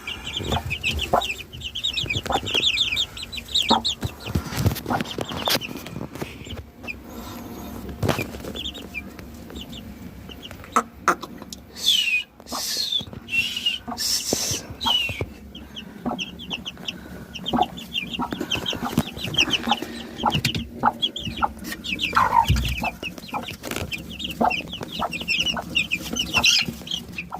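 A group of 23-day-old chicks peeping continuously in rapid high chirps, with a few louder, falling calls about halfway through.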